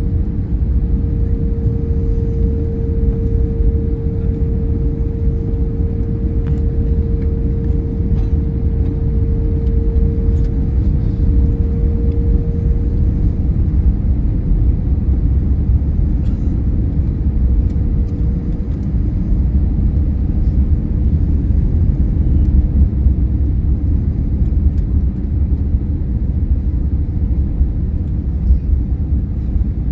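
Airliner on a landing approach: a loud, steady low rumble with a thin steady whine that fades away about halfway through.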